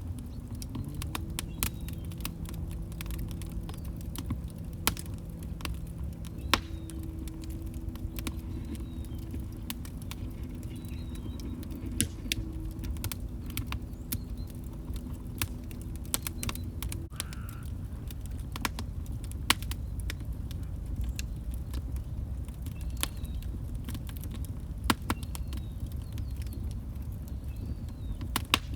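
Log fire in a fireplace crackling, with irregular sharp pops and snaps over a low steady rumble of the flames.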